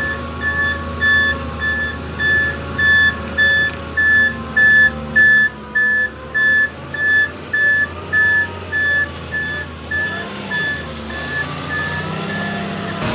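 Concrete mixer truck backing up: its reverse alarm beeps steadily, about two beeps a second, over the running engine. The beeps grow louder, then fade and stop near the end.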